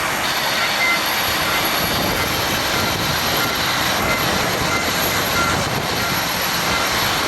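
Jet airliner engines running with a steady, loud rush of jet noise.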